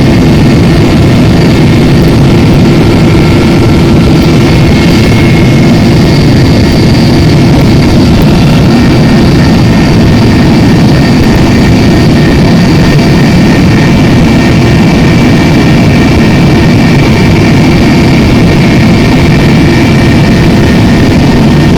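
Helicopter in flight heard from on board: a loud, steady drone of engine and rotor with a thin, high turbine whine over it.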